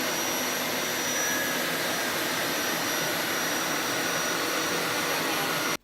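Hoover carpet shampooer's motor running steadily, a loud rushing suction with a thin high whine, as the machine is pulled back with the spray trigger released to suck up the dirty water. It stops abruptly near the end.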